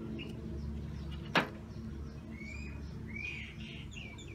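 Small birds chirping in the background, with a quick run of chirps near the end. One sharp knock about a second and a half in.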